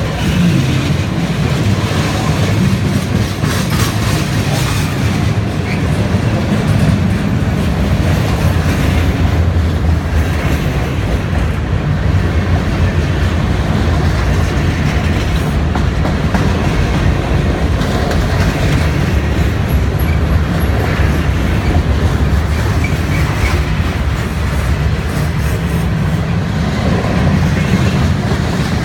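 Freight train cars rolling across a bridge close by, a loud, steady rumble with the clatter of wheels on rail joints.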